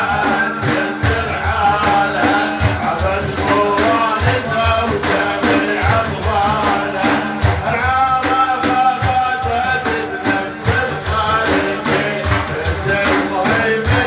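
Devotional music: hand drums beating a steady rhythm under a pitched melodic line.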